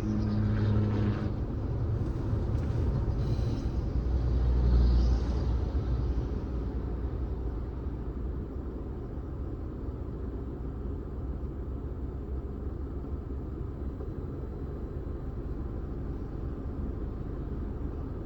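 Car driving on the road: steady low rumble of engine and tyre noise, swelling louder in the first few seconds before settling to an even drone.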